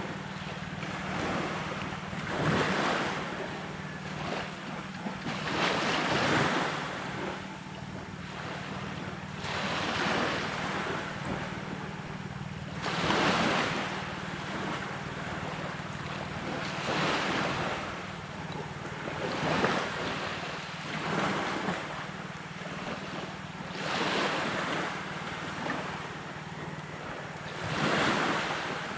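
Sea waves breaking on a beach, a surge of surf rising and falling about every three to four seconds, with a steady low hum running underneath.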